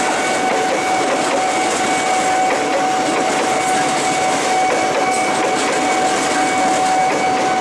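KRL Commuter Line electric multiple unit passing close by: a steady, loud rush of wheels on rail and carriage noise, with a steady high tone running through it.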